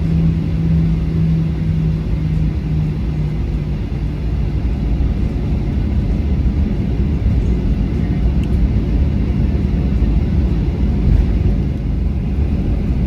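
Steady low rumble of a jet airliner's cabin with the engines running, with a low hum that fades out about three and a half seconds in.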